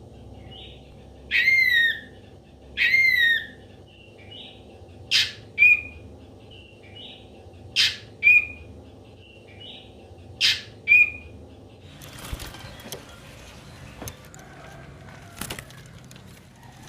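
Ashy drongo calling: two drawn-out, falling whistles, then three evenly spaced pairs of calls, each a sharp chip followed by a short clipped note. About twelve seconds in the calling stops, leaving a soft rustling with a few clicks.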